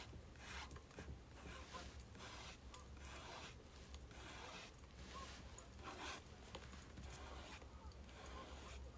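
Faint scratchy strokes of a pen writing on paper, about one or two strokes a second, over a steady low hum.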